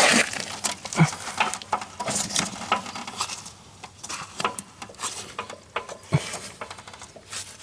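Irregular clicks, scrapes and metal rattles of hands working on a lawn mower's belt drive, trying to pry the old drive belt off its pulley, with a few sharper knocks.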